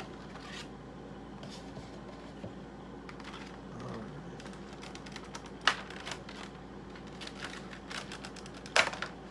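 A cardboard Funko Pop box and its plastic insert being handled as the vinyl figure is taken out: scattered light clicks and crinkles, with two sharper snaps, one a little past halfway and one near the end.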